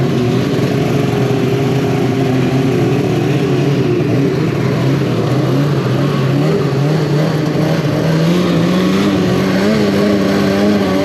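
Snowmobile engine running under way, a steady drone that climbs in pitch about eight seconds in, over a rushing noise of wind and track.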